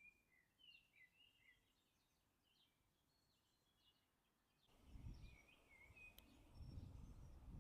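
Faint songbirds chirping and calling in short, quick notes. About five seconds in, a low rumbling noise comes in and grows, and a single sharp click sounds shortly after.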